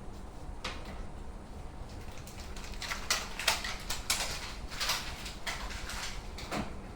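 Kitchen items being handled and packed away: a run of short rustling and scraping noises, thickest in the middle, with one more near the end.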